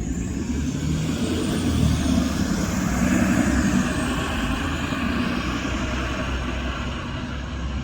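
City transit bus driving past, its engine and tyre noise swelling to a peak about two to three and a half seconds in, then easing off as it moves away.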